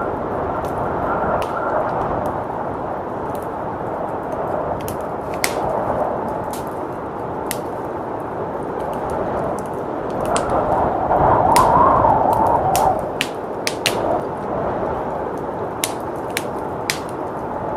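Wood fire crackling with scattered sharp pops and snaps, over a steady rush of blizzard wind that swells louder a little past halfway.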